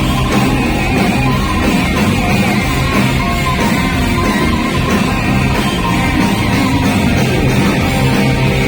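Live hard rock band playing loud and steady, with electric guitar over bass and drums.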